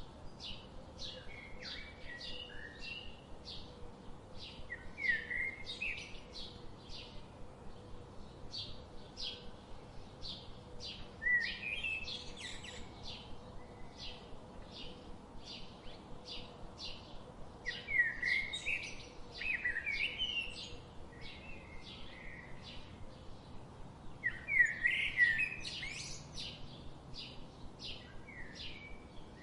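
Birds singing: a steady run of short, high chirps repeating about two or three times a second, broken now and then by louder warbled song phrases, the loudest of them near the end.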